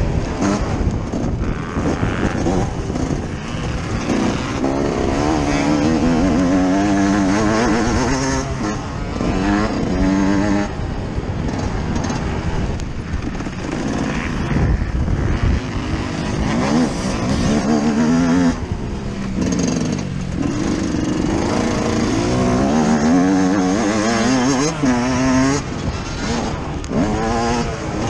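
Yamaha YZ125's single-cylinder two-stroke engine heard from on board the bike, revving up and falling off again and again as the rider accelerates, shifts and backs off around a motocross track.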